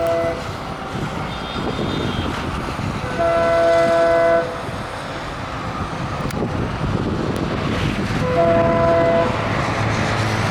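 WDP-4D diesel locomotive's multi-tone air horn sounding two blasts of about a second each, one about three seconds in and one about eight seconds in, over the rumble of the approaching train.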